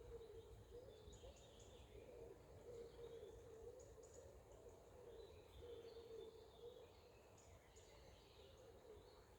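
Faint outdoor ambience: small birds chirping in the distance over a low, wavering hum.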